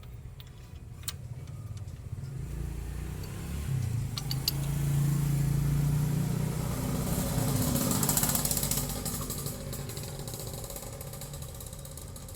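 A vehicle engine grows louder over a few seconds, runs loudest for a few seconds, then fades away, with a few sharp clicks before it.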